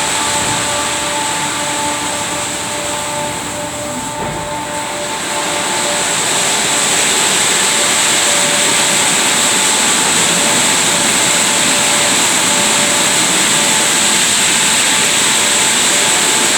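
Christ Genius rollover car wash running: a steady, loud hiss of machinery and spray with a motor hum. The hum fades out about five seconds in, and the hiss then grows louder and holds steady.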